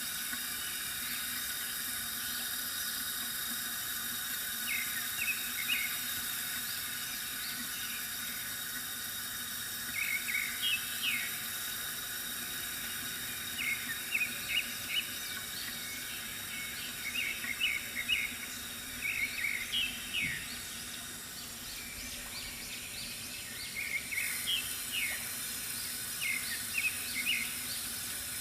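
Bamboo water fountain trickling steadily, with small birds chirping in short runs of quick notes every few seconds.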